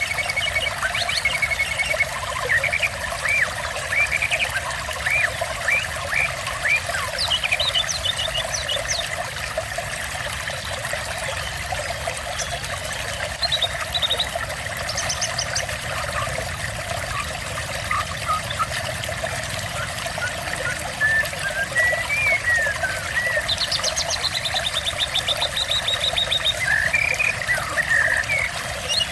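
Water trickling and splashing steadily, with small songbirds chirping and trilling over it: short rising and falling chirps throughout, a brief high trill about halfway through, and a longer trill a little later.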